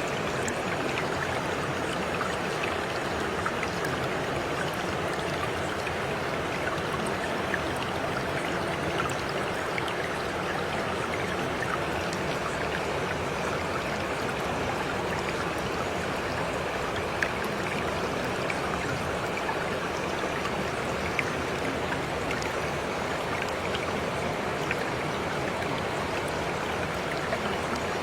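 Steady rain falling: an even hiss with scattered sharp drop ticks, a few of them louder.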